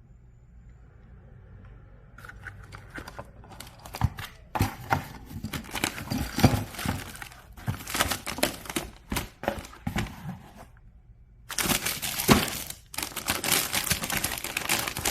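Plastic packaging crinkling and rustling as it is handled, in irregular crackling bursts that start about two seconds in, pause briefly about eleven seconds in, then resume more densely.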